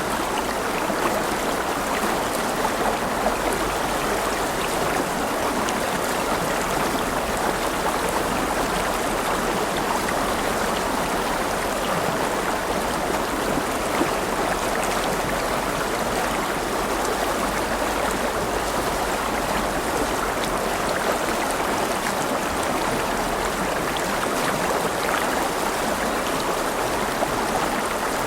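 River water flowing over rocks, a steady rushing and babbling with many small splashes.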